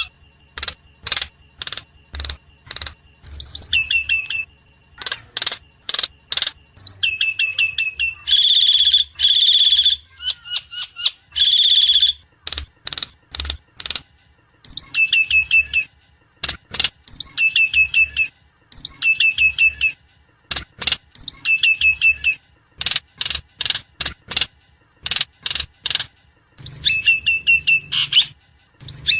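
Javan myna (jalak kebo) calling over and over: runs of sharp clicking notes, repeated phrases that step down from a high note to a lower one, and a spell of loud harsh, grating calls a few seconds in.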